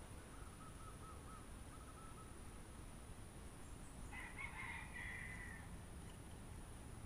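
Wild birds calling: a run of quick faint chirps, then a louder, harsher call about four seconds in that lasts a second or so, over a steady high whine.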